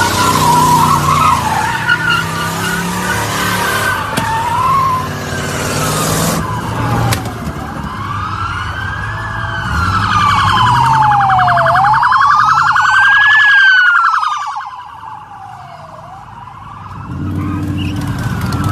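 Car tyres squealing over engine noise for the first few seconds. Then a police siren wails, its pitch sweeping slowly up and down, from about seven seconds in until near the end, when engine sound returns.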